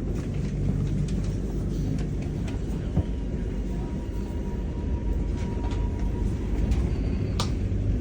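Steady low rumble inside a Melbourne suburban electric train running on the track, with scattered light clicks, a faint steady whine between about three and six seconds in, and a sharp click near the end.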